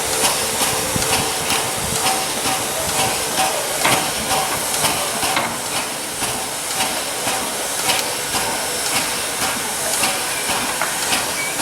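Steam hissing steadily from a PKP Ol49 steam locomotive, with scattered short clicks and knocks.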